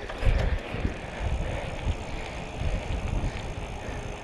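Riding noise from a moving bicycle: wind gusting and rumbling on the microphone over a steady hiss.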